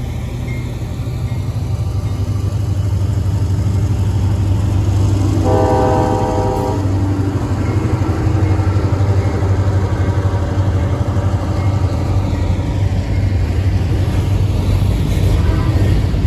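Diesel freight locomotives, including a Lake States SD50-3, running past with a steady low engine drone. The air horn sounds once for about a second and a half about five seconds in, and starts again near the end.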